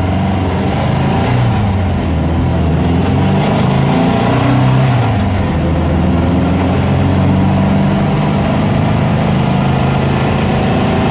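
VW Super Beetle Baja Bug's air-cooled flat-four engine heard from inside the cabin while driving, loud and steady. The revs rise twice in the first five seconds as it pulls away, then hold level at cruise.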